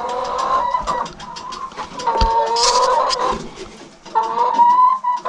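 Laying hens calling: three drawn-out, wavering calls about a second each, with quick light taps between them.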